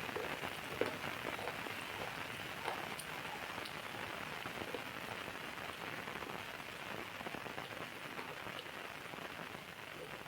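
Steady rain falling, with scattered louder drops landing close by.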